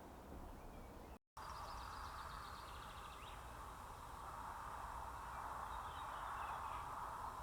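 Songbirds singing: a fast trilled phrase of high notes about a second and a half in and another shorter phrase near the end, over a steady rushing background noise. A brief dropout to silence about a second in.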